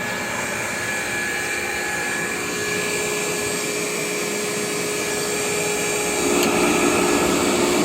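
KICE Waterfall aspirator running: its single-phase 110 V electric fan motor hums steadily under a rush of moving air with a few held whining tones, smooth with no irregular noises. The air rush grows a little fuller and louder about six seconds in.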